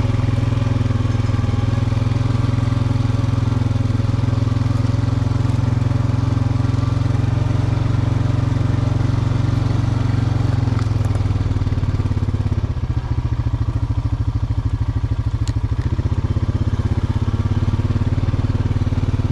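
John Deere 5045E tractor's diesel engine running steadily as it drives across a mown field. About two-thirds of the way through, the engine note drops a little and turns more pulsing.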